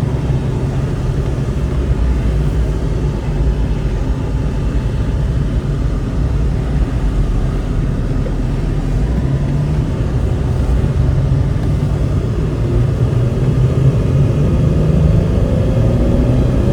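A 2001 Jeep Cherokee XJ's 4.0-litre inline-six with a Banks header runs steadily while driving down the road, heard from inside the cab with a low road rumble from its 33-inch tyres. A rising whine creeps in near the end as it gathers speed.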